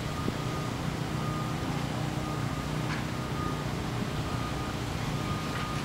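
A vehicle's reversing alarm beeping repeatedly at an even pace, over a steady low engine rumble.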